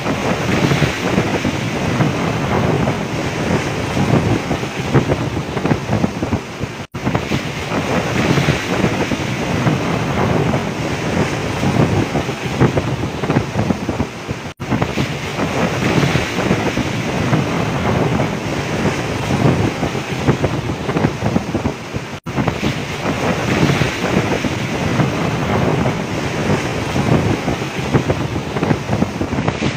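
Storm wind buffeting the microphone over waves crashing and surging around a fishing boat at sea, a continuous gusting noise. It cuts out very briefly three times, about every seven to eight seconds.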